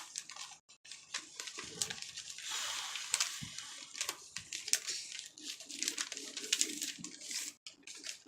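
Sheets of paper rustling and crinkling as paper airplanes are folded and handled, with scattered light clicks and a longer rustle about three seconds in.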